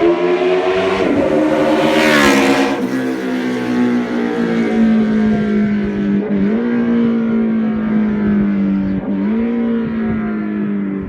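Kawasaki Z1000 inline-four motorcycle engine and exhaust revving up to a brief loud peak about two seconds in, then held at high revs, with two short dips in pitch that recover quickly.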